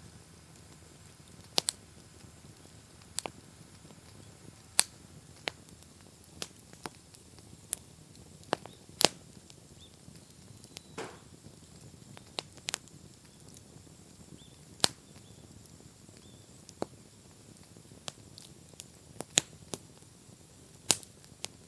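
Wood bonfire crackling, with irregular sharp pops and snaps over a low, steady burning hiss, and a brief hiss about halfway through.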